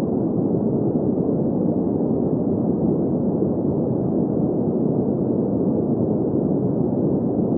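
Steady green noise: an even, unbroken hush that sits in the low-middle range and has no high hiss, never changing in level.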